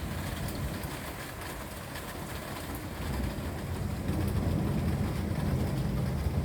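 Rain falling with a low rumble of thunder that swells about halfway through and rolls on.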